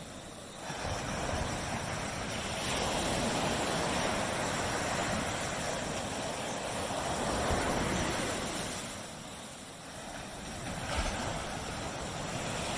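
Ocean waves breaking and washing up on a beach, the surf swelling and ebbing. One long wash builds about a second in and lasts several seconds, then dies down, and a smaller surge comes near the end.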